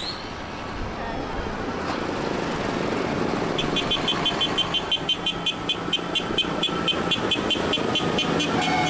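Tractor engine noise building as it approaches, with a rapid high beeping about five times a second from about three and a half seconds in.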